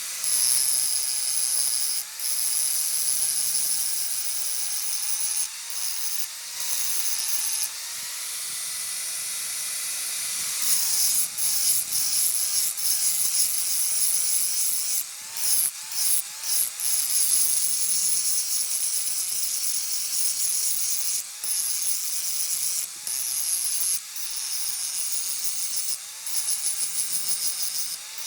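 Handheld power tool grinding or sanding metal: a loud high hiss over a motor whine that sags and recovers as the tool bears on the work, with brief breaks where it lifts off.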